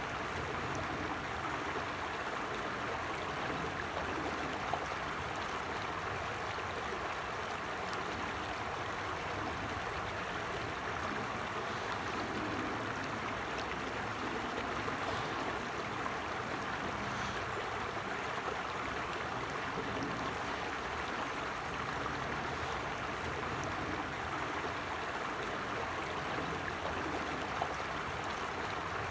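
A small stream or brook running steadily over stones, a continuous rushing and babbling of water.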